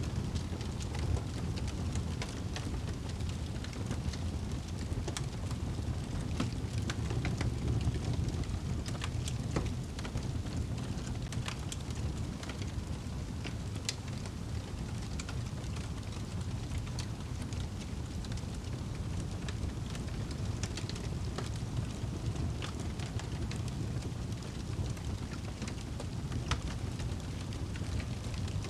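Wood fire in a fireplace burning with a steady low rumble, with frequent sharp crackles and pops scattered throughout.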